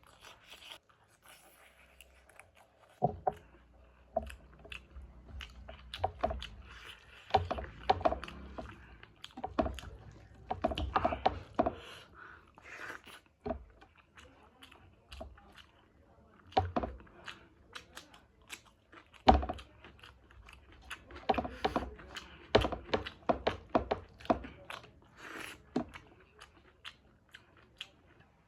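A person eating close to the microphone: wet chewing with irregular crunches and bites, scattered for the first few seconds and then coming thickly. The food is a meal of chicken wings curry with rice, broccoli and salad.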